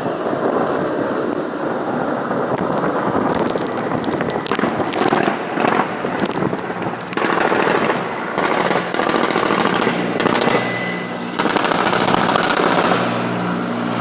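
Bursts of rapid automatic gunfire, dense clusters of sharp cracks from about three seconds in until near the end, over a steady helicopter rumble.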